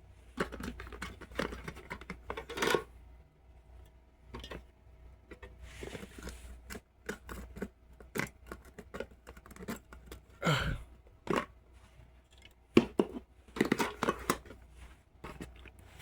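A plastic bag of ice being handled: crinkling and rustling with scattered clicks and knocks, and a few louder knocks in the second half.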